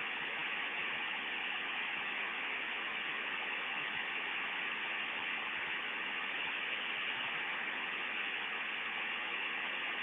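Steady hiss of static on an open mission-control radio voice channel, cut off above the voice band.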